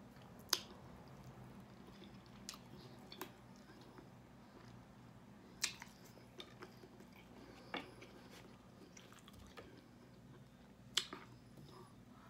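Close-up eating of chicken wings: quiet chewing with scattered sharp wet mouth clicks and smacks, a few of them louder, over a faint steady low hum.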